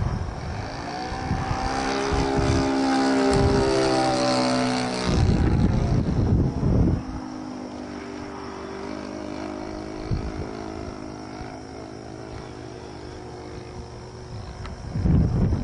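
Midwest Citabria RC model airplane's engine buzzing in flight, loudest in the first five seconds with its pitch dropping as it passes, then fainter and steady. Strong wind gusts rumble on the microphone near the start, around five to seven seconds in, and at the end.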